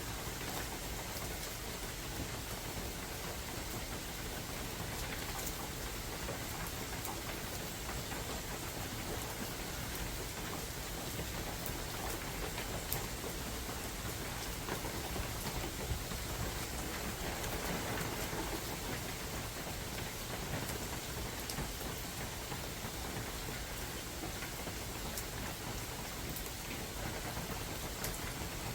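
Steady spring rain falling in a forest, drops pattering on leaves and surfaces, with occasional sharper individual drop ticks.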